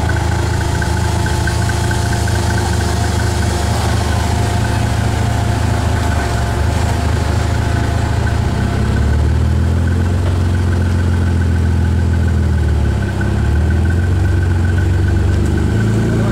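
Off-road buggy's engine running under load as it crawls over an obstacle, its note getting louder and shifting about nine seconds in, with a brief dip near thirteen seconds.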